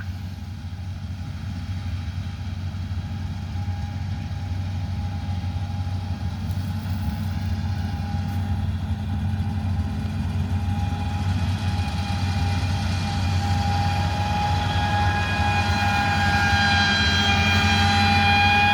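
Farm machinery engine running steadily, with a high whine that grows louder over the last several seconds.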